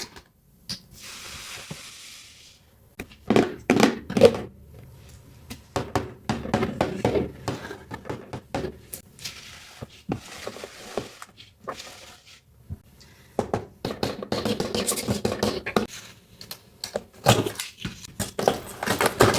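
Small plastic toys and their packaging being handled: scattered taps and knocks of plastic pieces, with stretches of crinkling and rustling.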